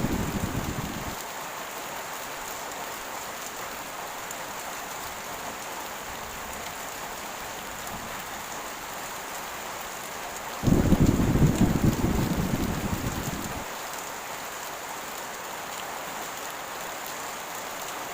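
Heavy rain falling steadily, with a roll of thunder that breaks in suddenly about ten seconds in and dies away over about three seconds. The tail of another roll of thunder fades out at the start.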